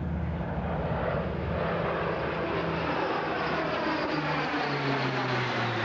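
Military jet aircraft flying past during an airshow demonstration, its engine noise steady and then falling in pitch over the last few seconds as it passes.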